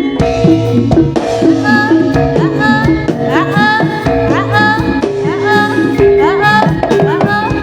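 Loud Javanese senterewe (jaranan-style) gamelan music: pitched struck percussion and drums keeping a steady beat under a high melody line that slides up into held notes.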